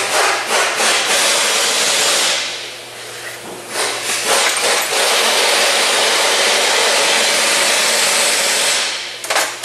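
Loud steady hissing in two long spells, one of about two seconds and one of about five, with a few light clicks in the gap between and again near the end.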